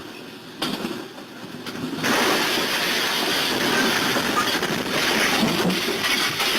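Train running close by: a loud, steady rushing rumble that jumps up about two seconds in.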